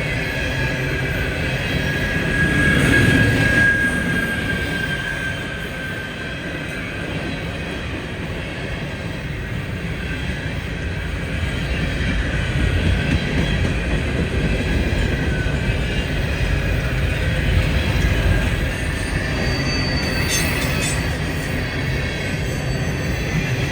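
A train rolling past with a steady rumble of wheels on rail. A thin, high wheel squeal rises for a few seconds a couple of seconds in, and a few sharp clicks come near the end.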